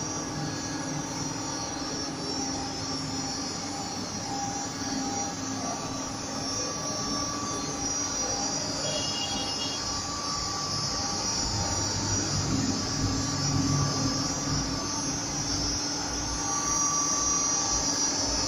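CNC wood router running: a steady high whine with lower machine tones that change every few seconds.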